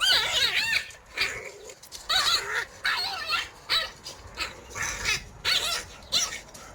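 Jindo dog making a run of short yips and whines, about one every half second to a second.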